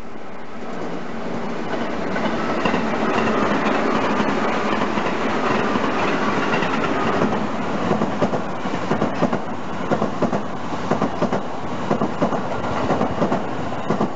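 Tobu electric commuter train approaching and passing close by, with the rumble of its running gear building over the first couple of seconds. Later come repeated sharp clickety-clack knocks as the wheels of the passing cars cross the rail joints. The sound cuts off abruptly at the end.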